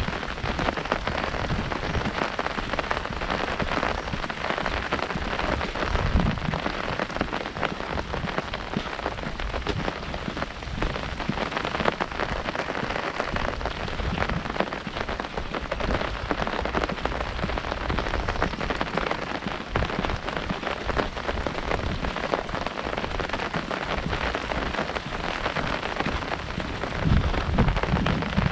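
Heavy rain pattering steadily on an umbrella canopy, a dense, even drumming of drops. Brief low thuds come about six seconds in and again near the end.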